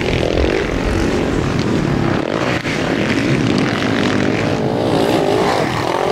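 Several sidecar motocross outfits' engines revving hard, their pitch rising and falling as they race.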